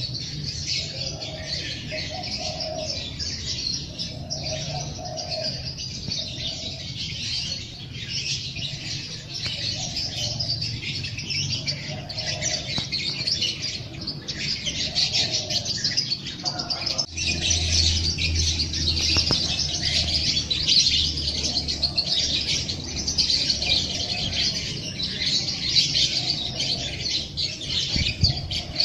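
A dense chorus of small songbirds chirping and twittering, with a dove cooing over and over in the first half. About seventeen seconds in, the recording changes abruptly: the chirping grows louder and a low hum comes in underneath.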